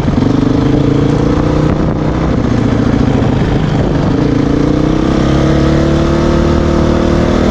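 Honda CRF dirt bike's single-cylinder four-stroke engine pulling hard up a snowy hill climb. Its pitch rises, sags about two seconds in, then climbs again and holds high near the end.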